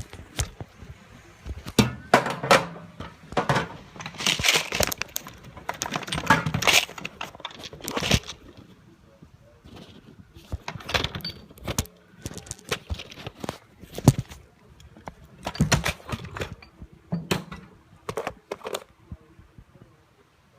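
Irregular metallic clicks, knocks and rattles of parts and tools being handled, with a few short noisy rushes in the first half; the engine is not running.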